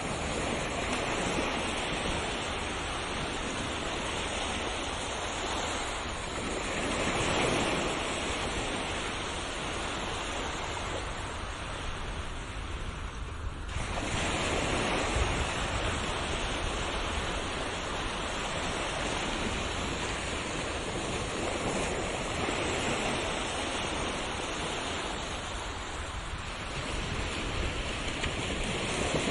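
Ocean surf washing continuously on a shore. The rush of the water rises and falls in slow swells as waves come in every several seconds.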